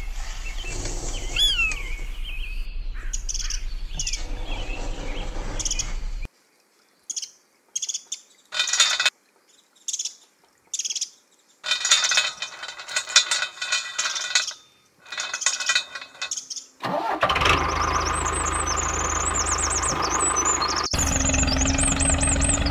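Bird chirps over a steady low hum for the first six seconds, then scattered small clicks and rattles of plastic toy parts and a metal chain being handled. About seventeen seconds in, a steady engine sound starts and runs on, for the toy power tiller towing the crawler tractor on the chain.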